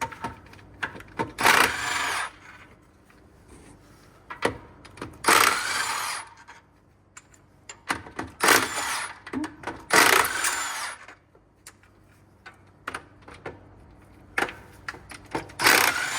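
Power tool running out truck drivetrain bolts in about five bursts of roughly a second each, with short metallic clicks and knocks between them.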